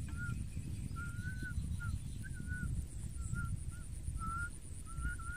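A bird calling outdoors with a quick string of short whistled notes, about two a second, some rising and some falling, over a steady low rumble.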